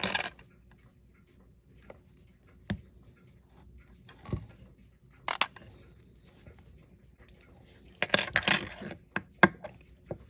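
Small clicks and scrapes of watchmaker's tools and tiny metal parts during disassembly of a Seiko 5 7S36 automatic watch, scattered single clicks and then a quick cluster of them near the end.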